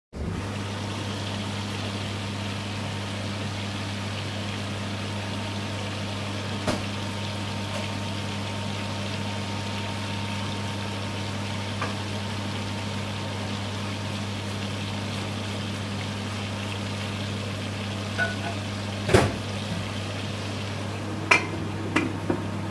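Chicken drumsticks and chips frying in hot oil, a steady sizzle over a low steady hum, broken by a few metal clanks of an aluminium pan lid being lifted off and set back on, the loudest about three-quarters of the way through.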